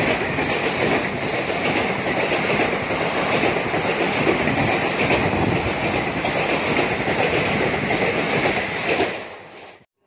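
Superfast express train passing at speed: the steady, loud rush and clickety-clack of its coaches' wheels on the rails. It fades quickly to silence near the end.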